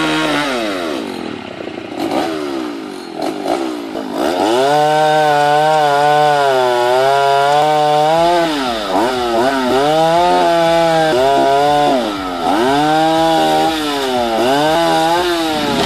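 Chainsaw running at high revs, its pitch repeatedly sagging and climbing back as it works through the cut, with a few brief drops in revs.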